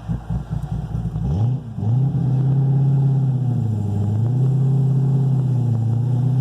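Cammed LS7 V8 of a 2010 Corvette Z06 through its new long-tube and factory-muffler exhaust: choppy, pulsing low-speed running, then the revs rise about a second and a half in and settle into a steady drone. The pitch dips briefly twice.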